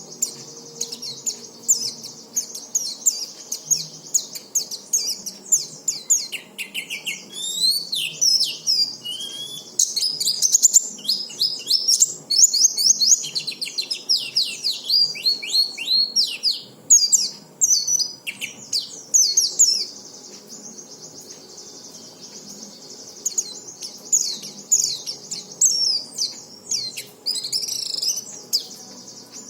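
White-eye (pleci) singing: rapid, high twittering phrases made of quick downward-sweeping chirps. The song breaks off for a few seconds about two-thirds through, then resumes.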